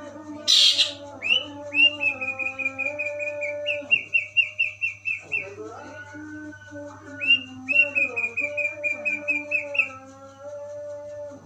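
Long-tailed shrike (cendet) singing in its sparrow-like 'gereja' style. A harsh scratchy burst comes about half a second in, then two runs of rapid high chirps, about eight a second, each lasting a few seconds. A steady low hum runs underneath.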